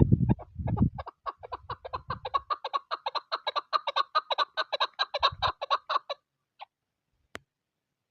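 Chukar partridge calling: a fast run of clucking notes, about six a second, lasting some five seconds. Low gusts of wind come in the first second.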